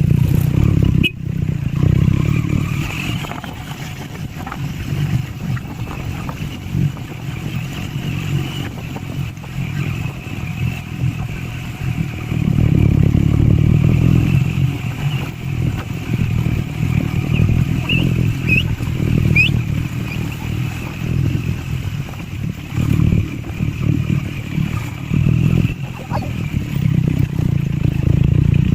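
Triumph Scrambler 400 X's single-cylinder engine and exhaust under way off-road, the note rising and falling with the throttle, louder for a few seconds near the middle and again near the end, with some clatter.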